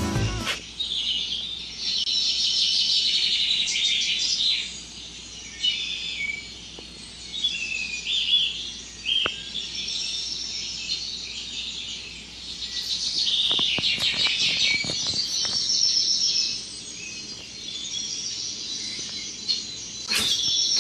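Small birds chirping and twittering in a steady, busy chorus of high-pitched calls, with a few short clicks in the middle.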